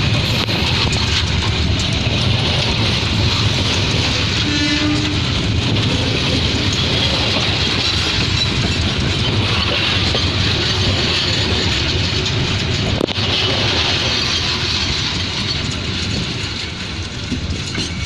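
A train running through the station, a loud steady rumble of wheels on rails and engine that begins to fade over the last couple of seconds. A brief tone sounds about four and a half seconds in.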